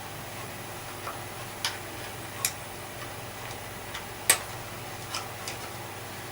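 Scattered sharp clicks and taps as the parts of a Hoover Junior vacuum's brush assembly are handled, about seven in all, the loudest a little over four seconds in.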